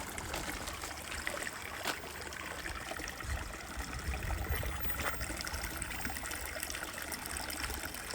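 Steady trickling, running water with a gusty low rumble of wind on the microphone.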